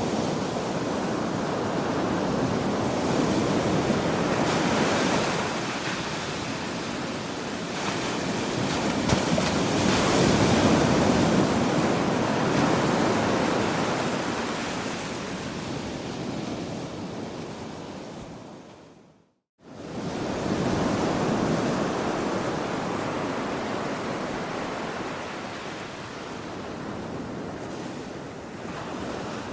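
Ocean waves breaking and washing up the shore, surging and ebbing in slow swells. About two-thirds of the way through the sound fades out to silence for a moment and fades straight back in.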